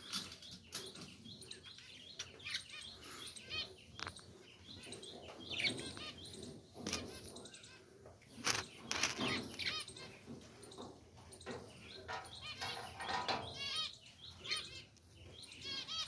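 Budgerigars chirping and chattering, with many short, quick warbling calls overlapping, broken by a few sharp clicks.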